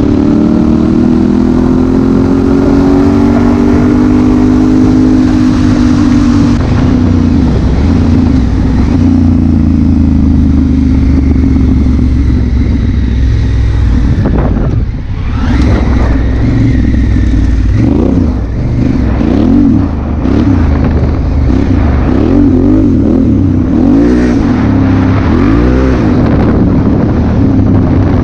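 Honda Africa Twin CRF1000L's parallel-twin engine running under way, its pitch climbing in the first few seconds and then settling. The sound drops out briefly about halfway through as the throttle closes, and the revs rise and fall repeatedly near the end.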